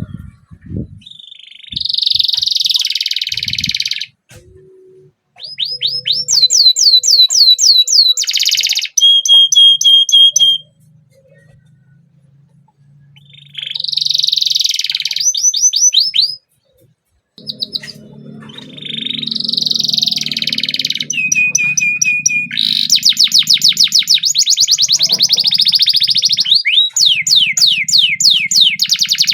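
Canary singing in long phrases of warbles and rapid rolling trills of repeated notes, broken by short pauses. The last stretch is one long, fast trill.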